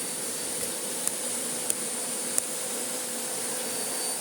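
Miele Blizzard CX1 bagless vacuum cleaner running, a steady rush of air with a high whine, with three sharp clicks in the first couple of seconds as debris is sucked up.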